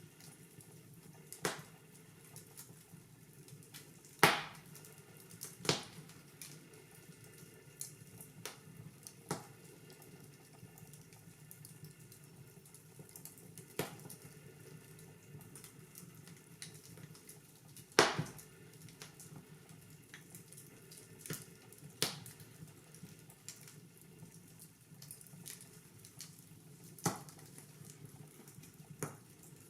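Wood fire crackling in a fireplace: irregular sharp pops every second or few, the loudest about four seconds in and again about eighteen seconds in, over a faint steady hiss.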